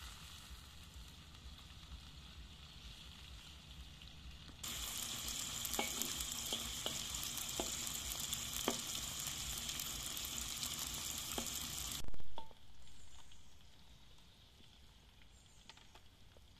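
Slices of calf's tongue frying in hot oil in a wok: a loud steady sizzle with several light taps of a wooden spatula, starting suddenly about five seconds in and cutting off about twelve seconds in with a brief low thump. Before and after, the frying is heard faintly.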